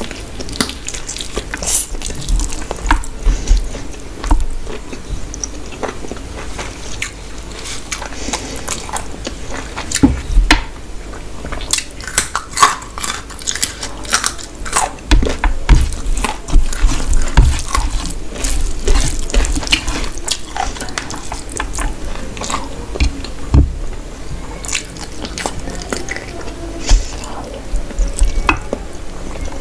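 Chewing and mouth sounds of a person eating rice with duck masala and gravy by hand: many short, irregular smacks and clicks.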